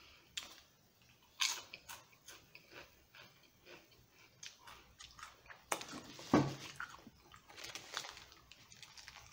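A person chewing a sandwich close to the microphone: quiet wet chewing with scattered crunches and clicks. The loudest crackles come about a second and a half in and again about six seconds in.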